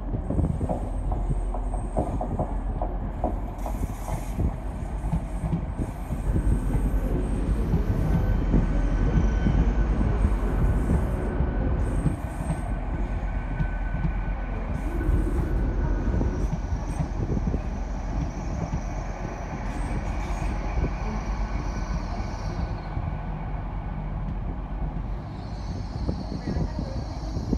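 TransPennine Express Class 802 multiple unit rolling slowly past on the adjacent track. A steady low rumble of wheels and under-floor equipment, with rapid clicking of wheels over the rails, is loudest as the middle coaches go by and eases as the rear cab passes near the end.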